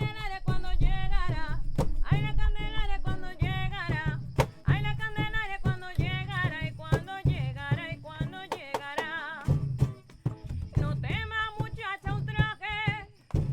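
A voice singing with wavering vibrato over acoustic guitar, with occasional sharp drum strikes.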